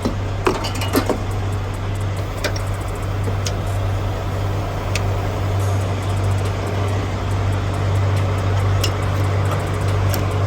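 Diesel engine idling steadily, a low, even hum, with a few sharp clicks and knocks in the first second or so and a few more scattered later.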